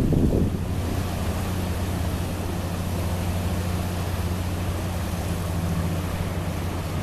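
High-speed passenger boat's engines running with a steady low hum, over a wash of water and wind noise. Wind buffets the microphone in the first half-second.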